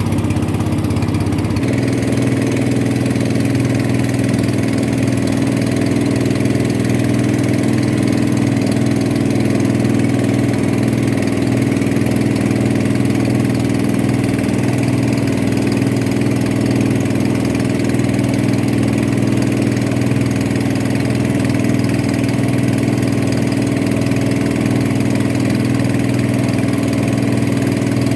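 A boat's engine running steadily at a constant speed, with a small shift in its tone about two seconds in.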